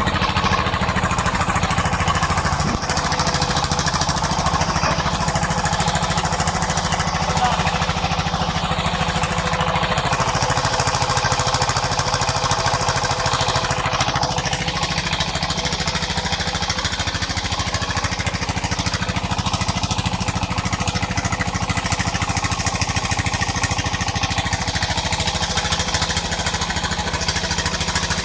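Village sawmill running: its engine keeps a rapid, steady thudding beat, with the higher, shifting sound of the saw working over it, which changes about halfway through.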